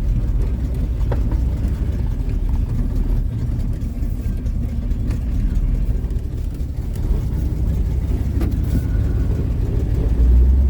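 1940 Ford pickup hot rod running and driving slowly over a rough dirt road, its engine making a steady low rumble with a few knocks and rattles. The rumble gets louder near the end.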